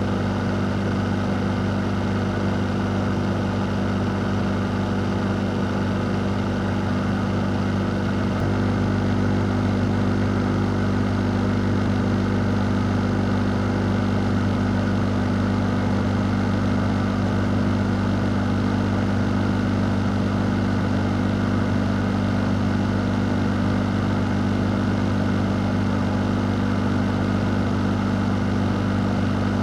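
Electric fan running steadily: a constant rush of moving air over a low motor hum, with no change in speed apart from a slight rise in level about eight seconds in.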